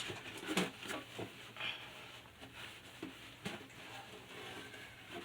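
Scattered light knocks, clicks and rubbing from handling a fridge part and wiping it with a dry cloth, with a sharp click at the start.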